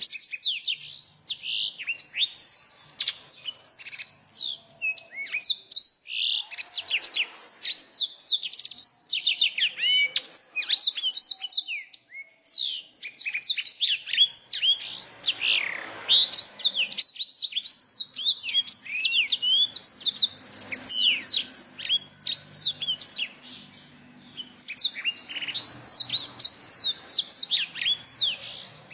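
A dense blend of songbird song: black-throated canary, bar-winged prinia and yellow-fronted canary singing fast, high chirps and sweeping notes almost without pause. There are brief lulls about twelve seconds in and near the end.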